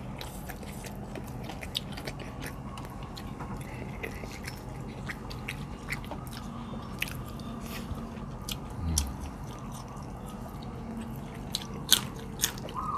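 Close-up eating sounds: chewing and lip smacks with many short, sharp clicks as food is eaten by hand. Near the end a bird starts a rapid, repeated call.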